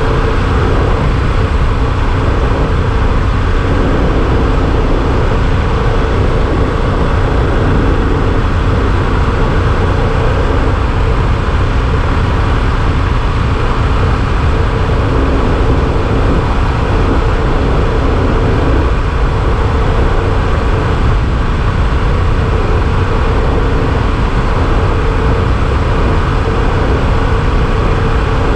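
Yamaha Super Ténéré XT1200 motorcycle's parallel-twin engine running at a steady cruising speed, its even drone mixed with rushing wind noise.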